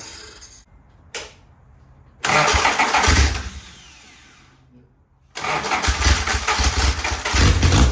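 A long-stored Van Diemen Formula 2000 race car's two-litre inline-four engine starting: it fires briefly about two seconds in and dies away, then catches about five seconds in and keeps running with an even beat.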